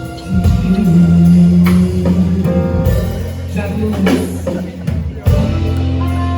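Band music: held bass notes under guitar, with drum hits every second or so.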